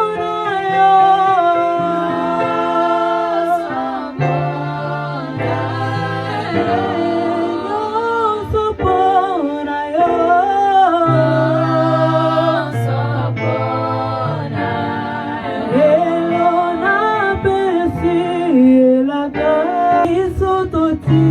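A group of singers rehearsing a gospel worship song together, singing in harmony over held low notes.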